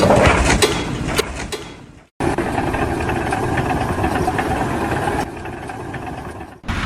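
A steady mechanical running noise like an engine, beginning abruptly about two seconds in after a few fading clicks and knocks, dropping in level near the end, and cutting off suddenly just before the end.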